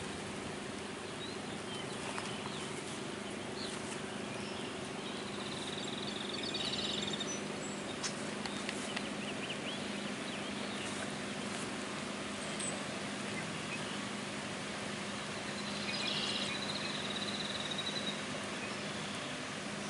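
Light rain falling on floodwater as a steady hiss, over a steady low machine hum. Birds chirp twice, about five seconds in and again about sixteen seconds in.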